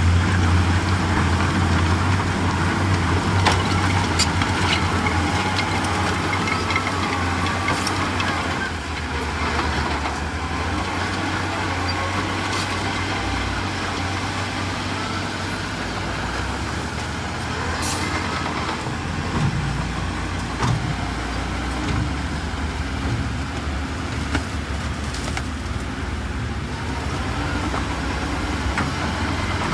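Heavy diesel engine of earthmoving machinery running steadily under load, with a few short clanks, dipping a little about eight or nine seconds in.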